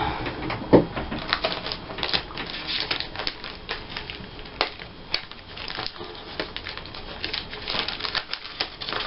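Scissors snipping paper cutouts, with paper rustling: a run of irregular, crisp clicks and short rustles.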